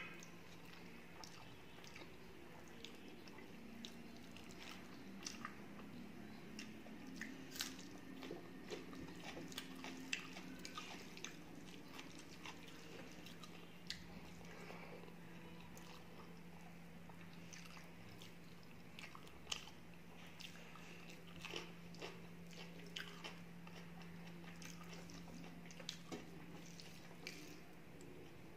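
Close-up chewing and biting sounds of someone eating rice and fried fish by hand, with many small sharp clicks and crunches, over a faint steady low hum.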